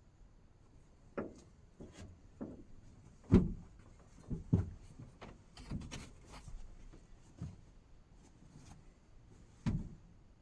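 A run of irregular knocks and clunks, like things being handled and set down, the loudest about three seconds in and another sharp one near the end.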